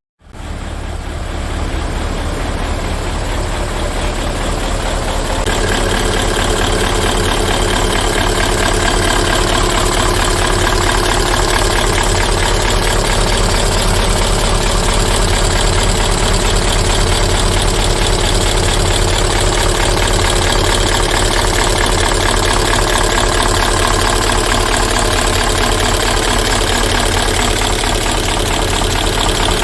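Hino F20C 20-litre V8 diesel engine of a Hino Super Dolphin truck idling steadily, with an even low throb; it gets a little louder about five seconds in.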